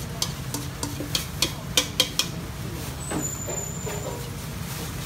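Pan-fried stuffed buns sizzling in a wide frying pan over a steady low rumble. A run of sharp clacks comes in the first two seconds, the loudest about two seconds in.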